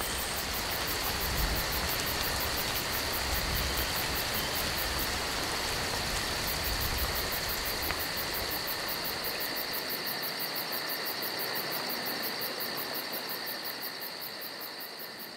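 Steady rain falling with insects trilling continuously over it. A low rumble in the rain drops away about halfway through, and the whole sound fades out near the end.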